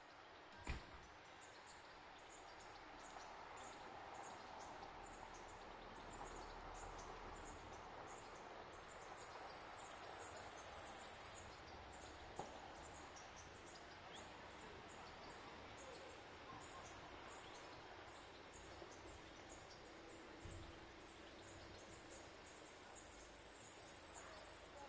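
Faint insect chirping: short, high chirps repeating a few times a second, with a higher, steady trill joining twice for a few seconds. A single sharp click about a second in.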